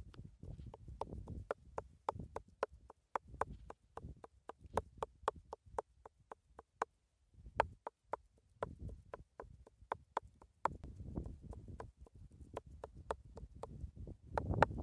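Knife chopping on a wooden cutting board: a rapid run of sharp knocks, about three to four a second, with a short break about seven seconds in.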